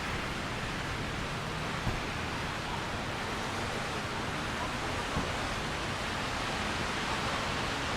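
Steady hiss of rain and wet-street ambience, with a couple of faint low thumps.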